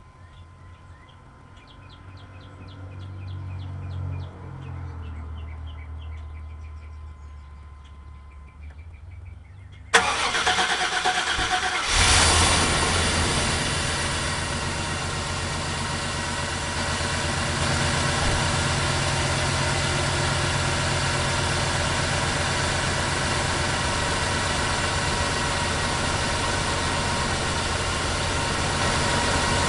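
Faint birds chirping. About ten seconds in, the starter cranks the 1995 Chevrolet C2500's 5.7 L (350) throttle-body-injected small-block V8 for about two seconds; the cold engine catches and settles into a steady fast idle, rising slightly a few seconds later.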